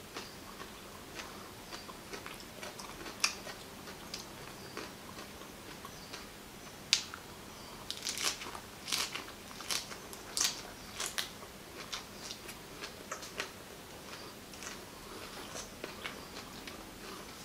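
Close-up eating sounds of a person biting and chewing raw agati flowers: a string of short crisp crunches, busiest and loudest from about seven to eleven seconds in.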